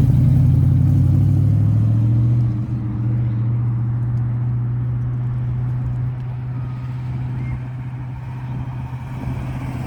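A car's engine running at low speed as it drives slowly past, a deep steady note that is loudest for the first couple of seconds and then grows fainter as the car moves away.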